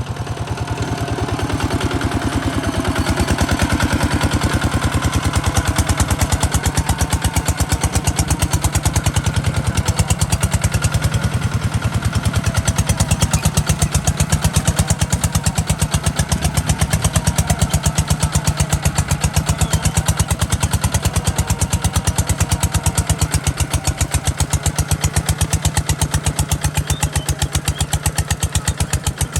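Kubota RT140 DI single-cylinder diesel engine running steadily with an even, rapid chugging, growing a little louder over the first few seconds.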